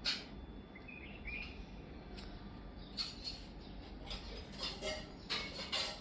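Birds chirping in short, separate bursts, with a few faint higher notes about a second in and a cluster of chirps near the end.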